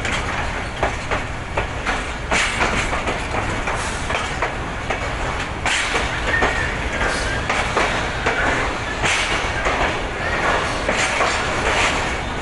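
Passenger train coaches rolling past, wheels clattering irregularly over rail joints over a steady rumble, with a few brief thin squeals from the wheels.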